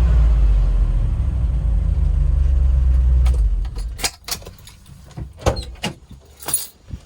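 Range Rover Classic's 3.9-litre V8 idling, heard from inside the cabin, with its exhaust leak behind the catalytic converter patched; the rumble stops about three and a half seconds in as the engine is shut off. A handful of sharp clicks and knocks follow.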